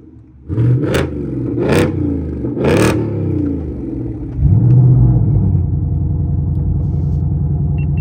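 Ford Mustang GT's 5.0 V8 through a Street Demon dual-mode performance exhaust, blipped three times about a second apart. About four and a half seconds in it steps up to a steady, louder low rumble.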